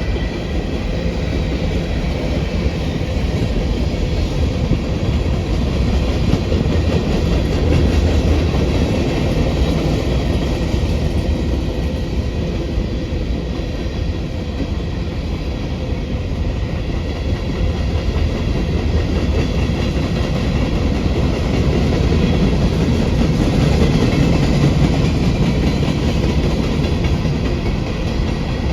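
Freight train rolling steadily past, with the clickety-clack of wheels running over rail joints.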